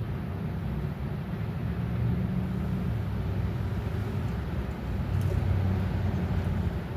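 Strong wind buffeting the microphone: a low rumble that swells and eases.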